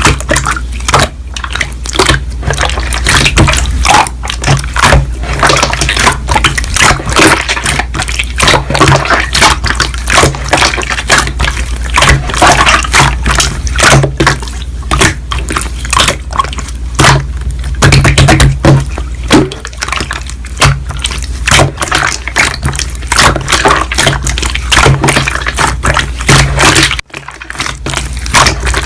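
Slime being squished and kneaded by hand: a fast, dense run of wet clicks and pops, with a short break near the end.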